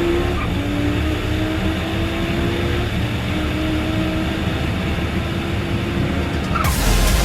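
Twin-turbo Lamborghini Huracán's V10 engine accelerating at full throttle, its pitch climbing slowly and dropping back at each gear change. Near the end, electronic music with a heavy beat comes in.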